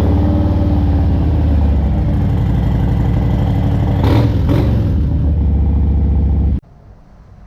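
Harley-Davidson Sport Glide's Milwaukee-Eight V-twin running at idle just after starting on a freshly fitted battery, with a short blip of the throttle about four seconds in. The engine is switched off abruptly near the end.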